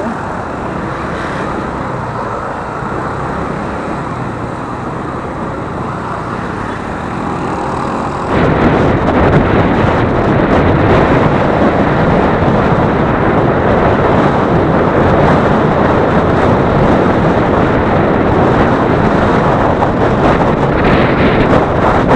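Motorcycle riding: engine and road noise with wind on the microphone, jumping sharply louder about eight seconds in.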